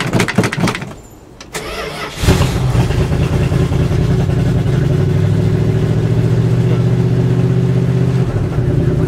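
1974 Dodge 318 small-block V8 cold-started: a short clatter, a brief crank, then the engine catches about two seconds in and runs steadily.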